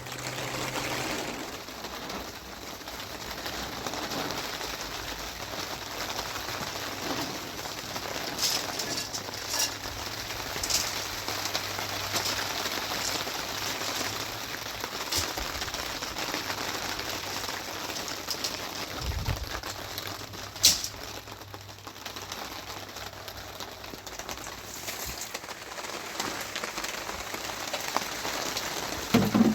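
Steady rain falling, with scattered sharper ticks of drops; one louder sharp tap comes about two-thirds of the way through.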